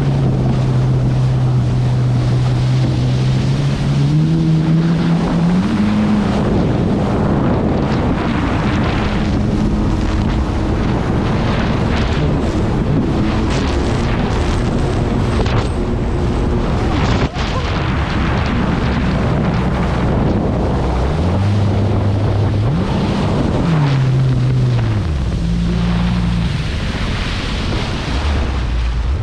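Jet ski engine running under changing throttle, its pitch rising and falling several times, with heavy wind buffeting on the microphone and water spray.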